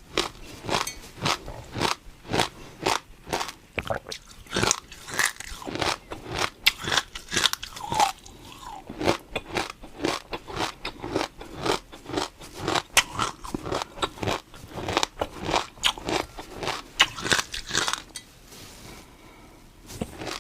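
Crunchy food being chewed close to the microphone, a steady run of crisp crunches about two to three a second, which stops about two seconds before the end.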